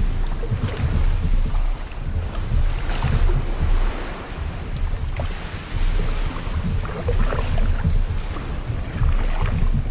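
Sea water sloshing and splashing against the kayak and rocks in irregular surges every couple of seconds, over a heavy low rumble of wind buffeting the microphone.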